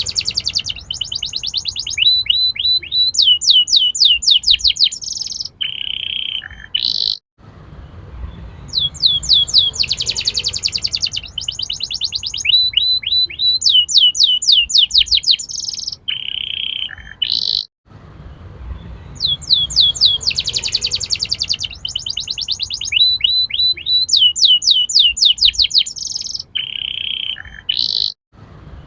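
Domestic canary singing loud, rapid trills and rolling phrases of quick sweeping notes. The same phrase of about ten seconds repeats three times as a loop, with a brief drop-out between repeats.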